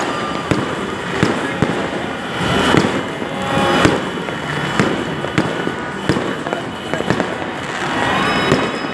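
A dense barrage of fireworks and firecrackers: many sharp bangs and pops overlapping over a continuous crackle, with a short rising whistle near the end.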